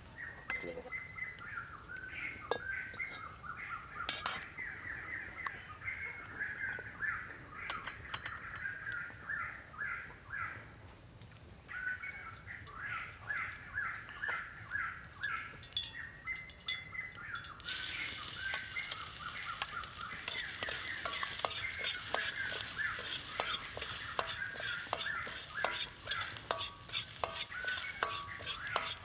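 Birds chirp repeatedly over a steady high-pitched drone. About two-thirds of the way in, sudden loud sizzling and crackling starts: food frying in hot oil in a steel wok, stirred with a steel ladle.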